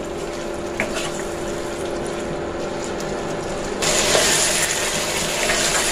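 Potatoes and spice masala frying in a nonstick pan, sizzling while being stirred with a spatula as they are sautéed; the sizzle grows louder about four seconds in. A steady low hum runs underneath.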